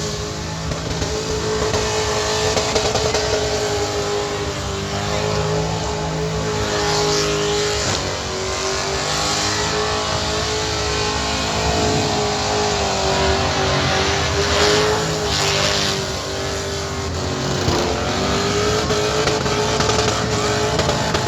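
Car engine held at high revs for a long stretch, its pitch wavering slightly up and down, over a dense rushing noise.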